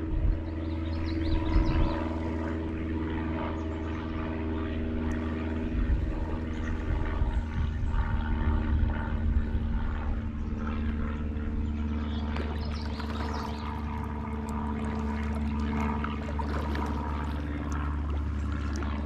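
A motor running at a steady, unchanging pitch, with faint water splashing over it; it cuts off abruptly right at the end.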